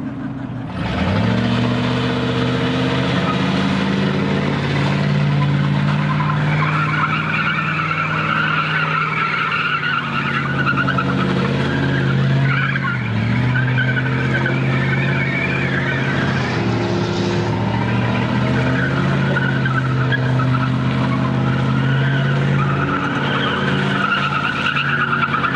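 A vehicle doing a burnout: the engine held at high revs while the tires squeal, with the revs dipping and climbing back about halfway through.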